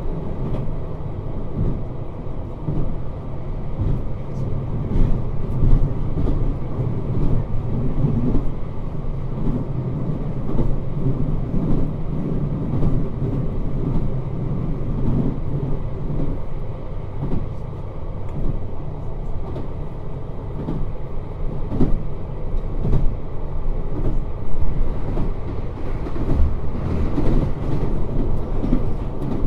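Cabin running noise of a JR Hokkaido 721 series 3000-subseries electric train under way: a steady low rumble of wheels and running gear, with irregular clicks as the wheels pass over rail joints.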